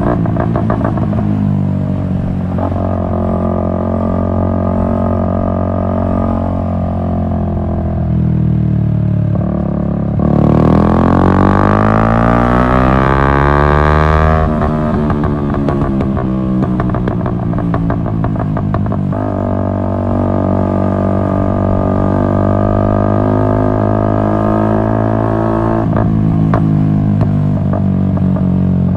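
Yamaha MT-125's single-cylinder four-stroke engine running through an Akrapovic exhaust at steady revs. About ten seconds in it revs up under acceleration for a few seconds, then falls off sharply.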